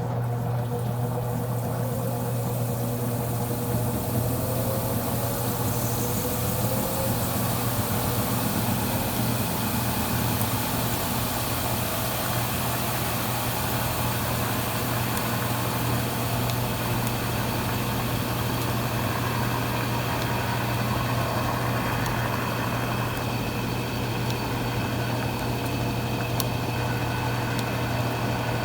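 Consul Cargo 8 kg washing machine running, with a steady motor hum and a whine that rises in pitch over the first few seconds.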